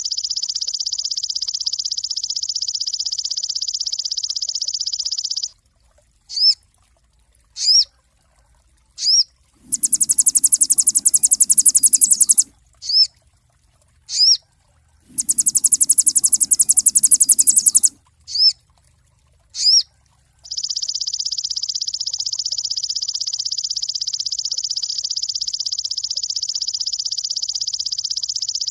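Sogon bird song: a long, fast, high trill, broken in the middle by single sharp chirps about one to one and a half seconds apart and by two bursts of a higher, harsher trill, before the steady trill returns.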